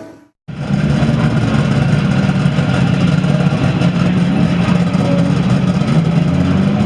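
A Group B rally car's engine idling steadily, coming in abruptly about half a second in.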